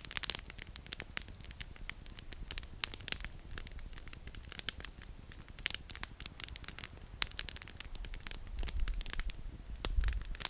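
Campfire of burning firewood crackling, with irregular sharp snaps and pops over a faint steady hiss. A low rumble swells briefly near the end.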